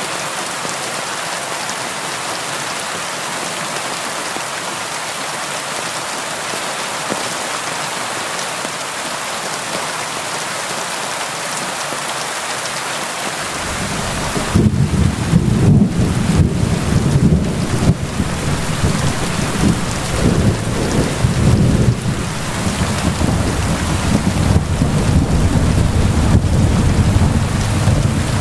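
Steady rain falling against a window. About halfway through, a long low rumble of thunder comes in and carries on under the rain to the end.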